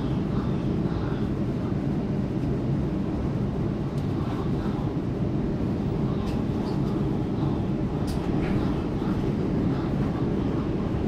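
Steady running noise of a Waratah Series 2 double-deck electric train in motion, heard on board: an even low rumble of wheels on rail. A few faint high clicks come through about four, six and eight seconds in.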